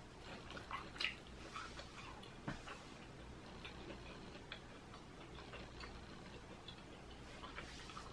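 Faint crunching and wet mouth clicks of someone chewing a fried pickle with a crushed Hot Cheetos crust. The crunches come thickest in the first few seconds, then grow sparse.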